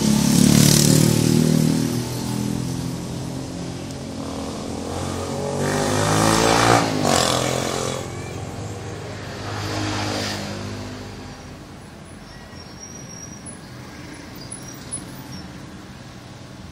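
Engines of motor vehicles passing by three times, each swelling and fading with a shifting pitch, then a steady low hum.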